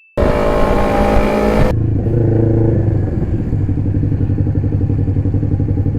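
Sport motorcycle engine running under way. It is higher-revving with wind noise for the first second and a half, then drops abruptly to lower, steady running with an even pulsing beat.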